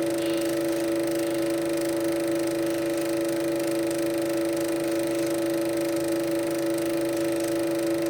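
A steady, unchanging hum made of two strong tones with fainter ones between them, heard from a Super 8 sound print playing on the projector.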